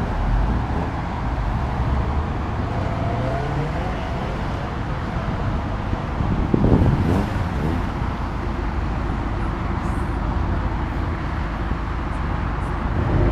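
Car engines and exhausts as cars drive out. One engine climbs in pitch as it accelerates about two to four seconds in, and a louder car revs past about seven seconds in.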